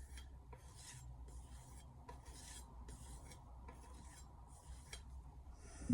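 Faint rhythmic rubbing strokes on a leather strop, about two a second, over a low steady hum.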